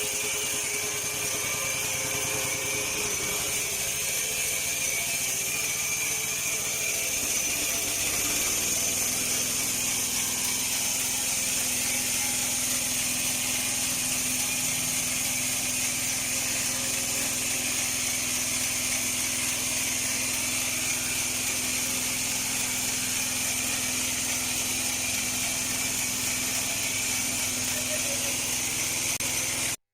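Portable bandsaw mill running steadily, its engine and blade making a continuous loud mechanical hiss. About eight seconds in, a steady low hum joins and holds.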